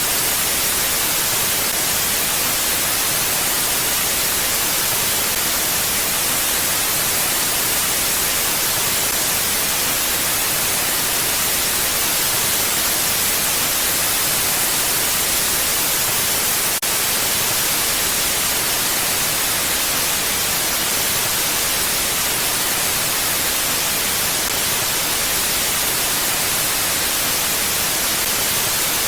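Mountain wind as a steady, even hiss, bright and unchanging, with no gusts or lulls. A single faint click about seventeen seconds in.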